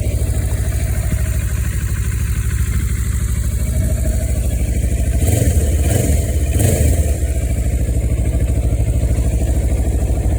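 Kawasaki Versys 650's parallel-twin engine idling steadily after a cold start, blipped twice on the throttle about five and six and a half seconds in.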